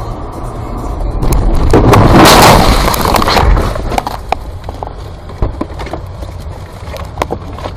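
Car crash heard from a dashcam: a loud crunching impact noise building for about two seconds, then scattered sharp knocks.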